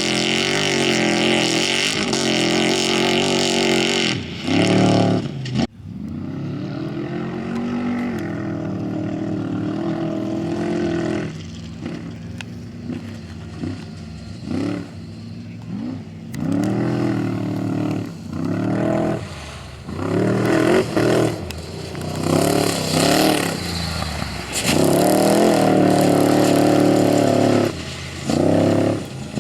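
Off-road race vehicles' engines running hard as they pass, loud and steady at first, with the sound cutting off abruptly about six seconds in. This is followed by a series of short bursts of engine revving that rise and fall in pitch, ending in a longer full-throttle run near the end.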